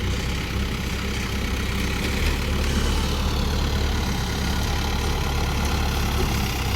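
Heavy diesel machinery engine running steadily with an even low drone.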